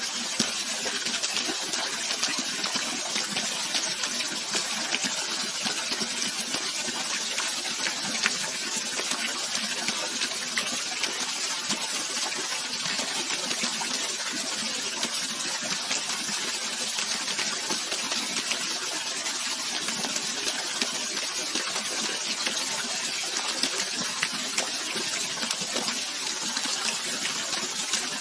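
Steady rushing, splashing water, an even hiss with fine crackle and no change in level.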